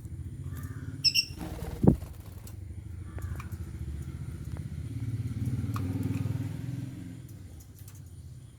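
A motor vehicle engine running with a low, pulsing rumble that swells about halfway through and then fades, as if passing by. Over it come a few brief bird chirps and a sharp click early on.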